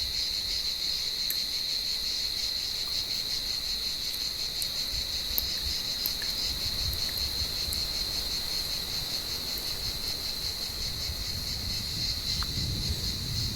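Cicadas calling in the tree: a steady, high-pitched, continuous buzz with a fine rapid pulse.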